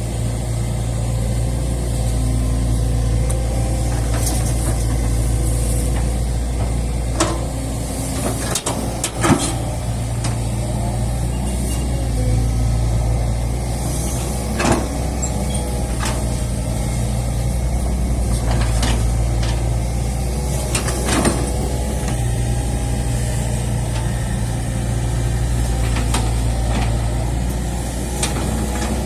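Excavator's diesel engine running steadily, with sharp cracks and knocks every few seconds, the loudest about nine seconds in.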